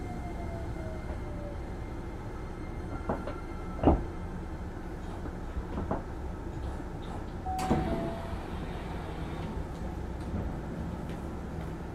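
Hankyu 9300 series train car standing at a station stop with its doors open: a steady low hum from the car's equipment, broken by a few knocks and clatters, the loudest about four seconds in and another near eight seconds.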